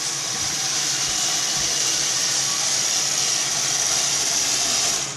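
Roomba robot vacuum running: a steady motor whir and suction hiss that cuts off suddenly near the end.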